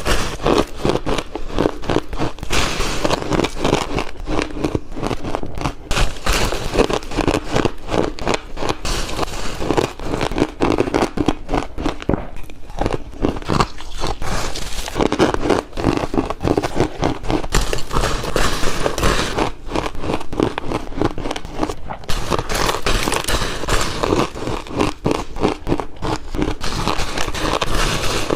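Close-miked biting and chewing of ice, with dense crackling crunches that run almost without a break. There are a few short pauses between bites.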